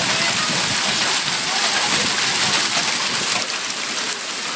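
Hailstorm downpour, rain and hail pattering steadily on surfaces with a dense, even hiss full of tiny hits.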